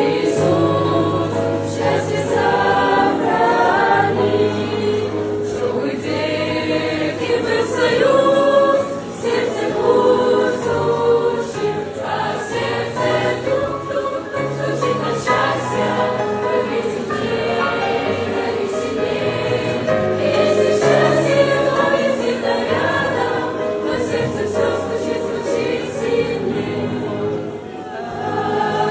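A choir singing a Christian song in Russian, several voices together over sustained low bass notes that shift every second or two.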